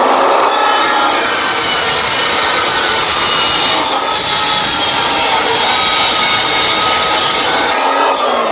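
Metal-cutting miter saw with a steel blade cutting through a thin-walled steel pipe: a loud, steady cutting noise with a high ringing whine. The motor winds down about 8 seconds in.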